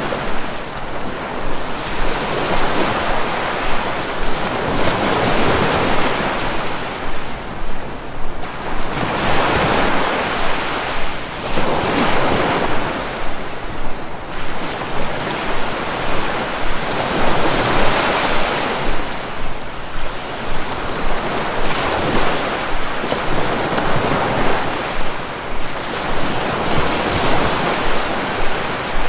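Sea waves breaking and washing on the shore, a steady rushing that swells and falls back every few seconds.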